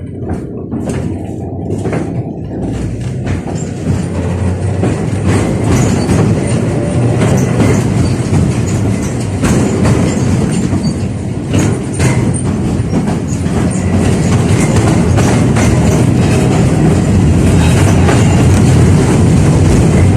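71-605A (KTM-5A) tram running on its rails, a steady low rumble with occasional sharp clacks, growing louder as the tram gathers speed.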